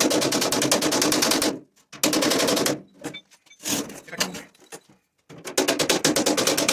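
Air hammer rattling against sheet metal in rapid bursts of a dozen or more blows a second. One burst runs into the start and stops about 1.5 s in, a short one follows near 2 s, and another starts about 5.5 s in.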